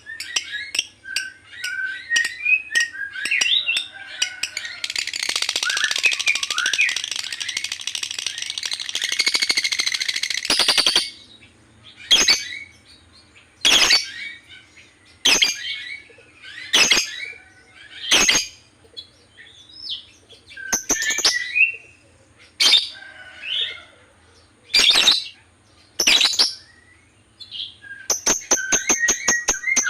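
Lovebird chirping: busy chattering, then a long unbroken run of chatter for several seconds, then sharp single calls about one and a half seconds apart, and fast chatter again near the end.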